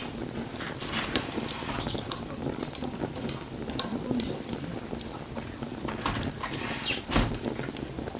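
Wood fire crackling with frequent sharp pops, and twice a brief high squealing hiss rising over the crackle.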